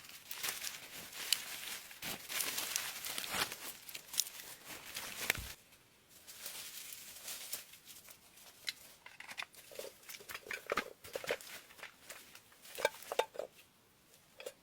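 Dry rustling, crinkling and tearing of material being handled, dense for about the first six seconds, then sparser clicks and snaps.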